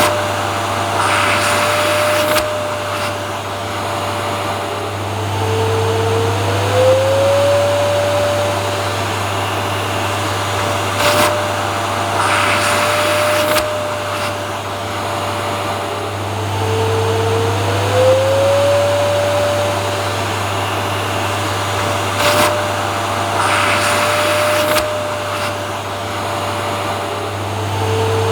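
Vacuum cleaner running steadily: a constant motor hum under a whine that three times drops in pitch and glides back up, with a brief louder rush of air between each of these, the pattern repeating about every eleven seconds.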